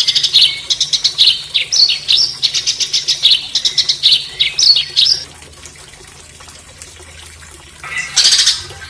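A songbird singing rapid, harsh rattling trills and chirps (rough 'tembakan' phrases), breaking off about five seconds in and starting again near the end.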